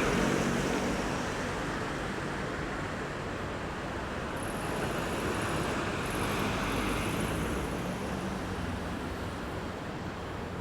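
Road traffic at a roundabout: a passing vehicle fades away over the first couple of seconds, then a steady wash of traffic noise with another vehicle swelling past about midway.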